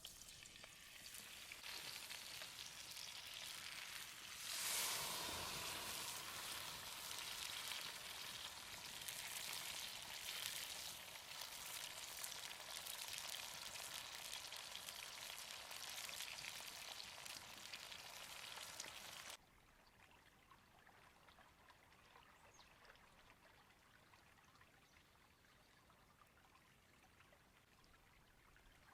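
Tomahawk steak sizzling hard in hot fat, with a louder surge of sizzle about five seconds in. The sizzle cuts off abruptly about two-thirds of the way through, leaving only a faint, quiet background hiss.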